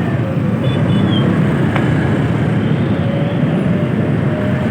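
Steady vehicle engine and road noise, a continuous low rumble with faint whining tones above it.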